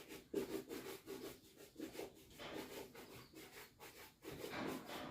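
Rhythmic rubbing or brushing strokes, about three a second.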